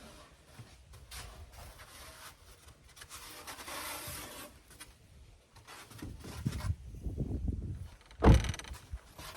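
Irregular scraping, rubbing and knocking work noises inside a truck topper, with one sharp loud thump about eight seconds in.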